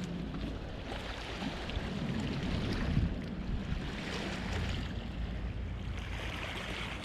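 Strong wind blowing in gusts, with wind buffeting the microphone.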